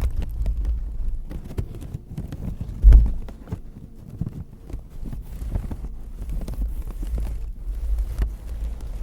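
Close-miked ASMR trigger sounds: an object is scratched and handled right at the microphone, a dense run of small irregular clicks and scrapes over a low handling rumble, with one loud thump about three seconds in.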